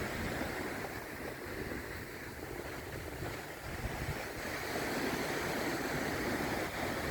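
Sea surf washing onto a sandy beach, a steady rush of waves that swells a little louder about two-thirds of the way through.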